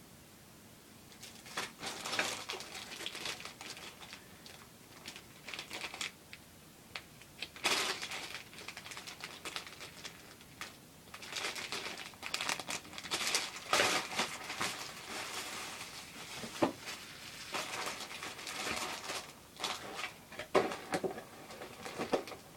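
Crinkling and rustling of model kit packaging being handled, in irregular bursts that start about a second and a half in.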